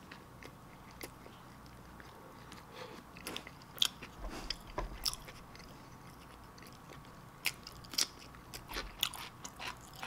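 A person chewing a mouthful of sloppy joe (soft bun and saucy ground meat) close to the microphone: scattered wet mouth clicks and smacks, more of them in the second half.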